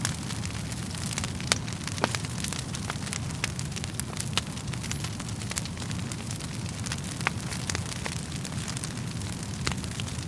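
Wood fire burning in a fireplace: a steady low rumble of flames with frequent sharp crackles and pops at irregular intervals, a few of them louder.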